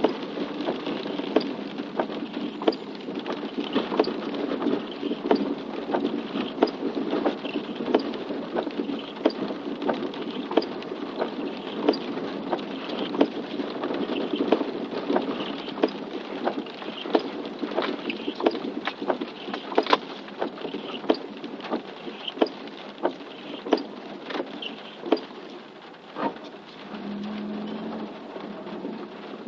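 Rain falling, with individual drops ticking irregularly, several a second, over a steady patter.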